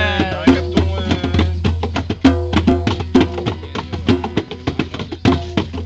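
Live band jamming: drums and percussion struck in a quick, busy rhythm over steady held instrument notes.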